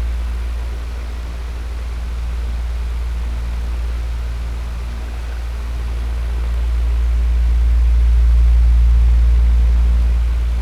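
Electric fan running steadily: a low motor hum under a rush of air. The loudness swells and fades slowly, louder again near the end.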